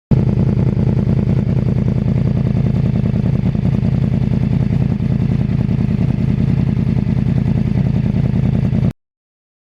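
2009 Yamaha R1's crossplane inline-four engine running steadily through a custom exhaust, with a fast, even pulsing note; it cuts off suddenly near the end.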